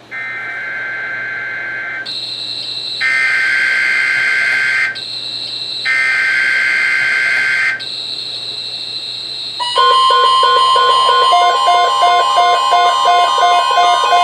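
NOAA weather radio emergency alert for a tornado watch. Three screechy data bursts of about two seconds each come first. About ten seconds in, a loud steady alert tone sets off, with a fast pulsing two-note alarm over it.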